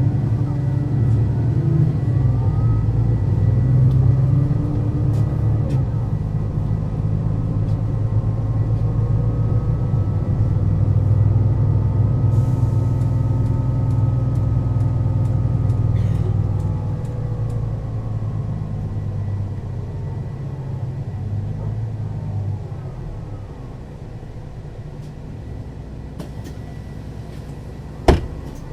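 Mercedes-Benz O 530 Citaro city bus's diesel engine and ZF automatic gearbox under way: the engine and drivetrain pitch climbs over the first dozen seconds and then sinks, and the sound drops to a quieter run about three quarters of the way through. A single sharp clunk sounds near the end.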